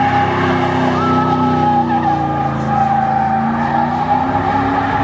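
Car engine held at high revs with a steady tyre squeal, as in a burnout, the engine note slowly rising and falling. Faint shouts from the crowd come through on top.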